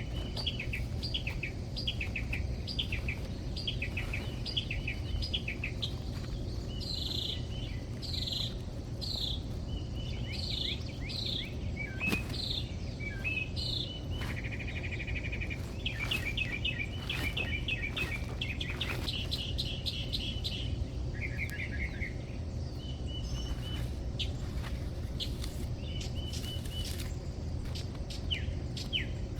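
Songbirds chirping and trilling, many short repeated notes from more than one bird, over a steady low background hum, with a few faint clicks.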